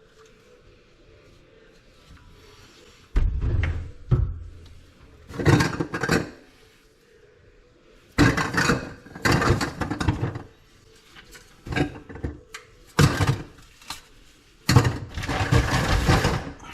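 Irregular bouts of scraping and rubbing, six in all, each a second or two long, starting about three seconds in: hands working on drain pipe and couplings.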